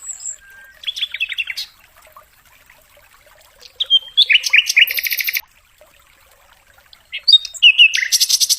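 Sikatan londo flycatcher singing: short bursts of quick, high chirping notes separated by pauses, then near the end a fast, evenly repeated rattling trill begins.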